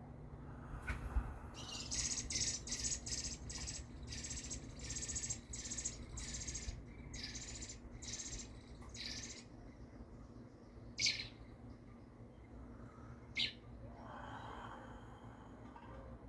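Baby birds giving raspy begging calls: a quick run of about a dozen short, harsh calls, then two single calls later on.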